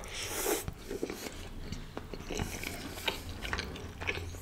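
Close-miked eating sounds of a person biting into a forkful of food and chewing it with wet smacks and small mouth clicks, starting with a brief sharper burst as the food goes in.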